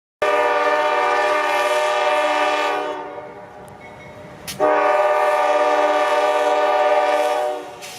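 CSX freight locomotive's air horn sounding two long blasts, about three seconds each, with a short gap between them. A low steady rumble of the train runs underneath, and a single sharp click falls just before the second blast.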